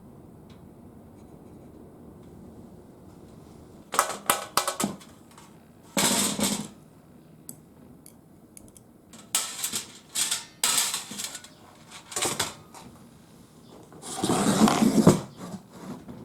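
Thin metal parts clinking and clattering in several short bursts after a few quiet seconds, ending with a longer scraping rattle.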